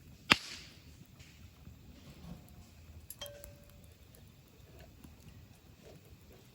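Wood campfire crackling, with one sharp loud pop about a third of a second in and a smaller crack about three seconds in, followed by a brief ringing tone.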